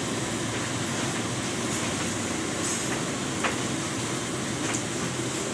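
Pork frying in a wok of hot oil, sizzling steadily over the steady roar of the burner beneath it, with a couple of light clinks of a metal ladle.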